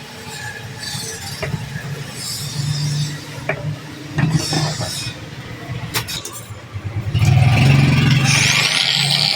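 Angle grinder switched on about seven seconds in and running up to speed, with a rising whine; before that, scattered knocks and clicks of handling the tool. Likely the test run of the grinder with its new armature fitted.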